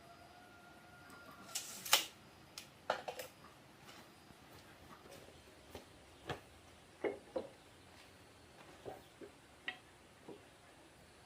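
Irregular light knocks and clicks, a dozen or so spread out over a quiet background, the loudest about two seconds in.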